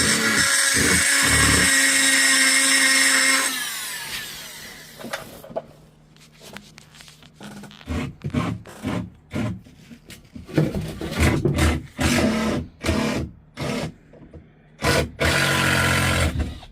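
Handheld rotary tool (Dremel) sanding paint off a foo dog statue: a steady high whine for about three and a half seconds, then winding down. After that comes a series of short rough bursts, with a longer one near the end.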